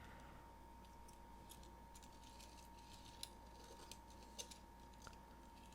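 Near silence with a few faint, scattered light clicks and ticks of small die-cast toy cars being handled and their wheels checked, over a faint steady hum.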